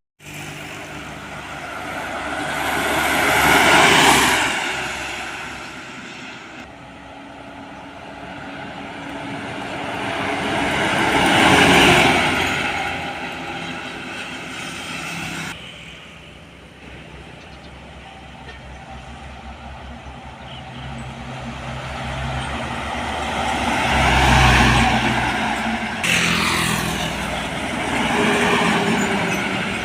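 Heavy road vehicles, trucks and buses, driving past one after another, each engine and tyre noise swelling as it nears and fading away; four pass-bys in all.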